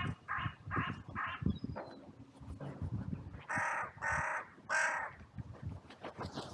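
Crows cawing: a quick run of short caws, about three a second, then three louder, harsher caws about half a second apart, with some low thumps mixed in.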